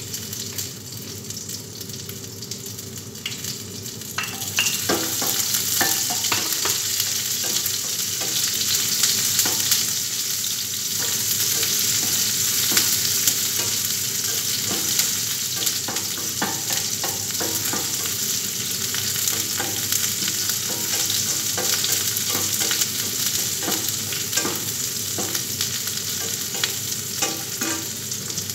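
Food frying and sizzling in a metal pot while a spatula stirs it, with frequent short clicks and scrapes of the spatula against the pot. The sizzling grows louder about four seconds in.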